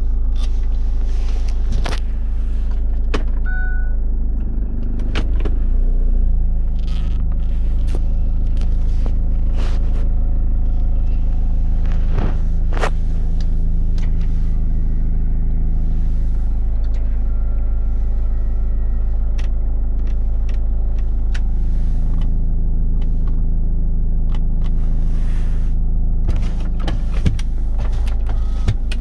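GM Daewoo Winstorm SUV engine running steadily, with a few short clicks scattered through.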